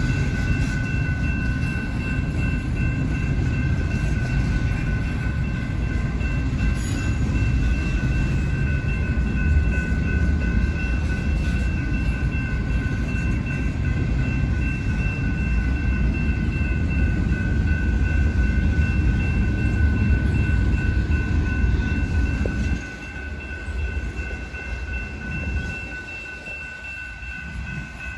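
Intermodal freight train cars rolling past with a steady heavy rumble of wheels on rail. The rumble drops off abruptly about 23 seconds in. A steady high ringing tone runs through it.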